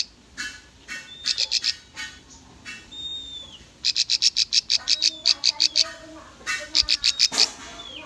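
Bar-winged prinia (ciblek) song: bursts of rapid, sharp chipping notes, about eight to ten a second, broken by a few thin whistled notes that bend down at the end.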